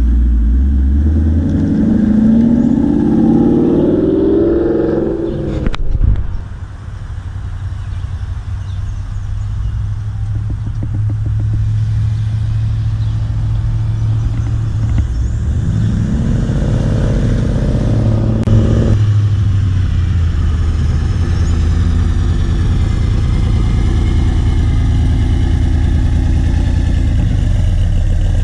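Car engines rumbling low and steady as cars roll in. One car accelerates with a rising engine note in the first few seconds, cut off by a sharp click. Another revs up about sixteen seconds in.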